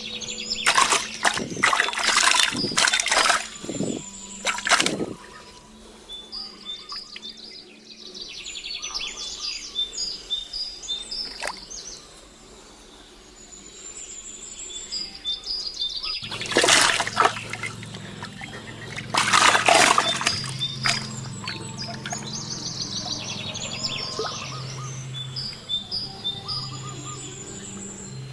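Birds chirping in repeated short series, broken by loud bursts of splashing water, the longest a few seconds after the start and two more past the middle. A low steady hum runs underneath and grows stronger just past the middle.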